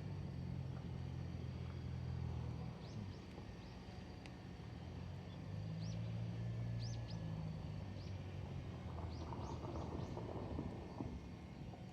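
Small bird giving short, high chirps, singly and in quick pairs, over a low steady hum.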